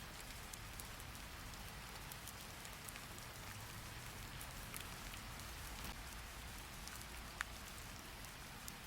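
Steady rain falling, an even hiss with scattered sharp drip ticks and one louder tap about seven seconds in.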